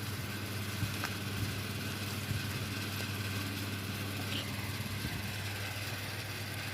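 Steady low hum, like a motor or mains-powered appliance running, with a few faint clicks.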